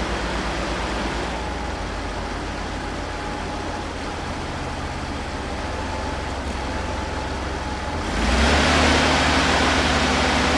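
Heavy machine engine running steadily under mechanical noise. About eight seconds in it gets abruptly louder, with a harsher rushing noise.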